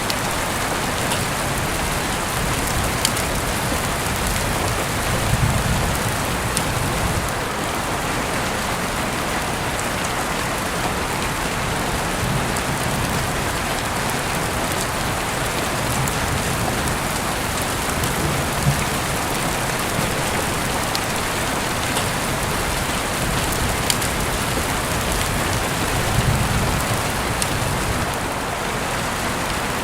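Heavy rain falling steadily, an even hiss with individual drops ticking. Low rumbles swell briefly about five seconds in and again near the end.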